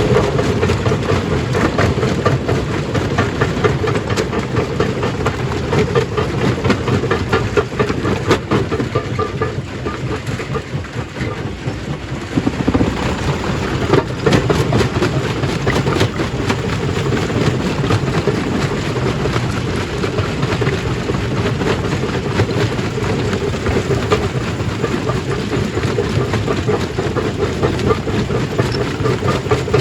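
Stone crushing machine running loud and steady, with a dense, irregular clatter of rock being broken.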